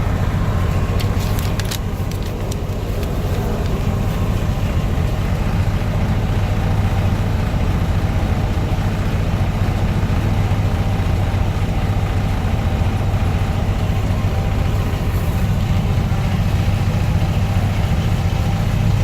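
2004 Freightliner M2 106's Caterpillar C7 inline-six diesel idling steadily, a deep even drone, with a few light clicks about a second or two in.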